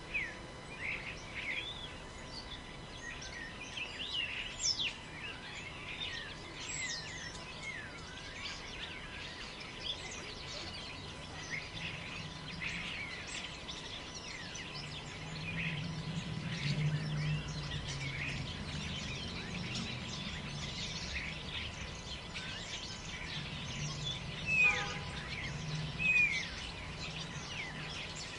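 Forest ambience: many small birds chirping and whistling in overlapping short calls, over a low rumble of wind that grows stronger in the second half. A louder bird call stands out twice, near the end.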